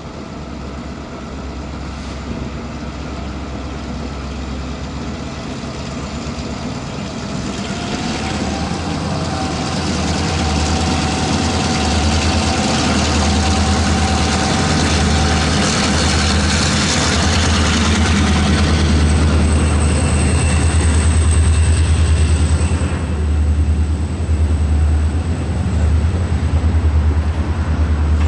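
Freight train's diesel locomotive approaching, its low engine rumble growing steadily louder as it comes near and passes, with a thin high whine for a few seconds near the passing. Freight cars then roll by.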